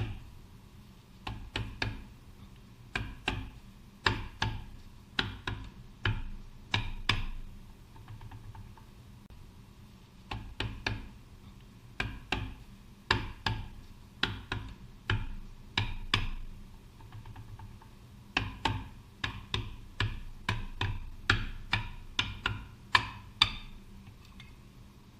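Mallet blows on a Kubota L3600 tractor's propeller-shaft case, struck to break it loose from the silicone sealant holding it. The blows come in quick clusters of two to four hits, with a couple of short pauses.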